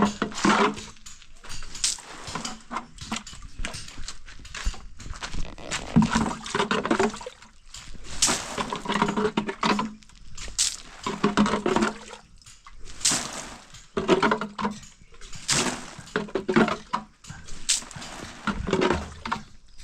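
Water being thrown by hand onto fresh cement work to cure it, in irregular splashes about every one to two seconds.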